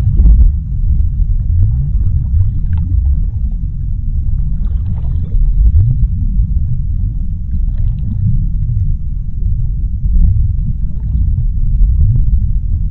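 Underwater sea ambience: a deep, continuous rumble with short low rising glides every few seconds and faint scattered crackles.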